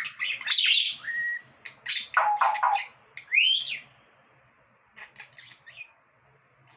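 Pet parrot calling in a quick string of whistles and squawks, some rising in pitch, then a few softer chirps.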